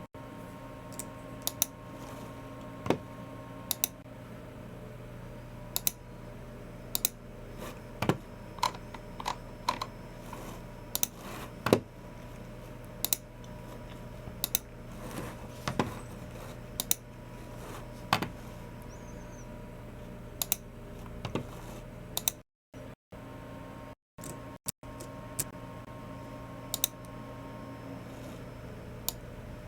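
Keystrokes on a Logicool MX Keys Mini keyboard and clicks of a Logicool G304 mouse, sharp single clicks at an irregular, unhurried pace over a steady low hum. The sound drops out briefly a few times a little past the middle.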